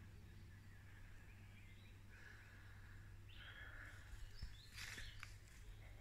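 Faint bird calls, short chirps recurring every second or so over a low steady rumble, with a brief rustle near the end.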